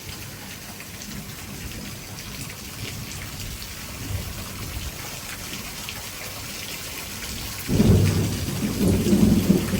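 Heavy thunderstorm downpour: a steady hiss of hard, wind-driven rain, then near the end thunder breaks in suddenly with a loud, low rumble.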